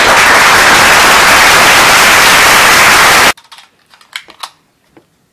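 Loud, harsh static-like noise that holds steady for about three seconds and cuts off suddenly, followed by a few faint clicks.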